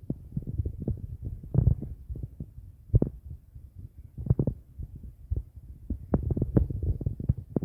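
Irregular low thumps, knocks and rumbling: handling noise from a phone microphone being jostled while walking.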